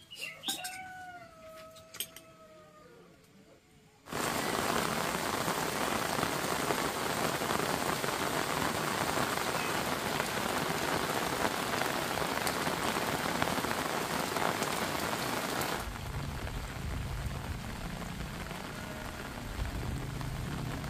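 Heavy rain comes in suddenly about four seconds in as a dense, steady hiss, then turns softer with a low rumble after about sixteen seconds. Before the rain, a drawn-out high-pitched call falls slightly in pitch.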